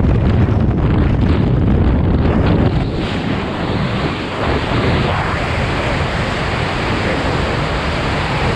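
Wind rushing and buffeting over the microphone during a skydive: a loud, steady rush that eases slightly about three seconds in.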